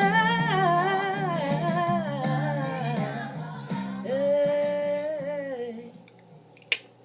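Solo voice singing a wordless closing run of held, wavering notes over steady low tones; it fades out about six seconds in, followed by a single sharp click.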